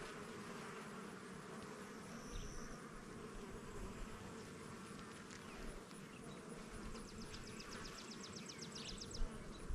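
Honey bees buzzing around an open hive, a faint steady hum.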